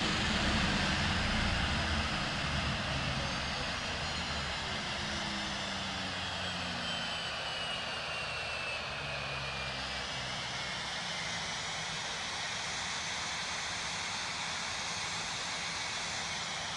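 Boeing 767 freighter's jet engines running down after landing: a steady roar with several slowly falling tones, easing off a little over the first few seconds.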